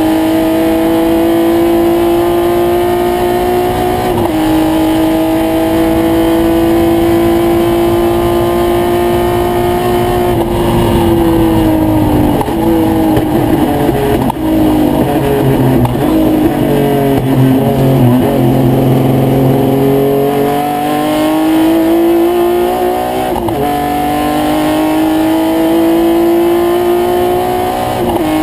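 Triumph GT6's straight-six engine heard from inside the cockpit at racing speed. The revs climb and drop sharply at an upshift about four seconds in, then fall away and wander midway. They build again, with another upshift near the end.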